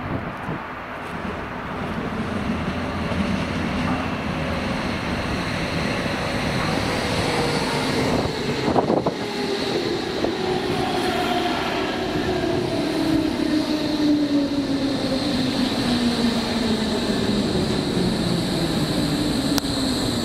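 Berlin S-Bahn electric multiple unit pulling into the platform and braking, with rumbling running noise. Its motor whine falls steadily in pitch over the second half as the train slows to a stop, and there is a single sharp knock about halfway through.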